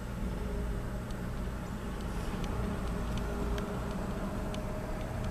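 Steady low rumble of a car idling, heard from inside the cabin, with a few faint clicks scattered through it.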